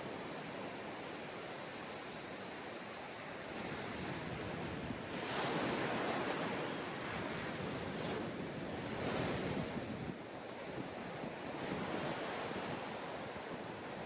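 Ocean waves breaking and washing on a sandy beach, with surges of surf about five seconds in and again about nine seconds in, and some wind on the microphone.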